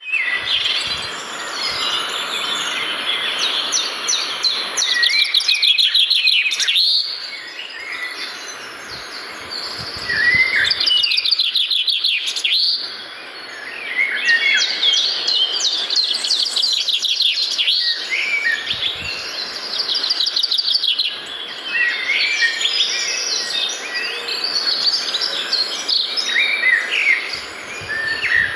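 Several birds singing and chirping at once, with rapid trills and short calls overlapping, and a steady high-pitched whine above them.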